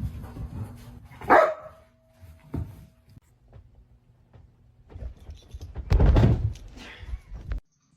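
A dog barks once, a short bark a little over a second in. Later comes a louder, deeper low sound lasting about a second.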